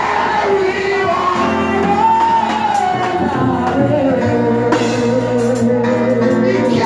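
Live gospel music with singing: long held, sliding sung notes over a steady bass line in a large hall.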